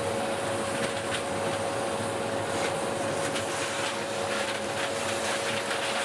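Vacuum cleaner running steadily with a constant whine, with irregular clicks and scrapes as soot and debris are brushed out of the fireplace firebox and sucked up.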